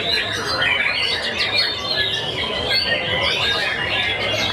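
White-rumped shama song: a dense, continuous run of quick whistles, chirps and trills, several phrases overlapping.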